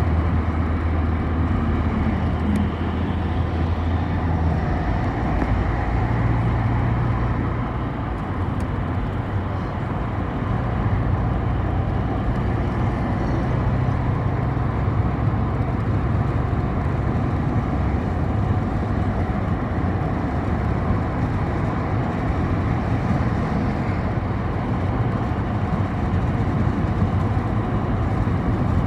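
City bus under way, heard from inside: a steady engine hum over road noise, the engine note shifting in pitch several times as the bus speeds up and slows.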